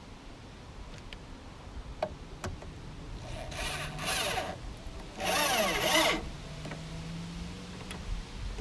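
Power drill run in two short bursts, about three and a half and five seconds in, its bit working into wood; the motor's pitch slides as it speeds up and slows.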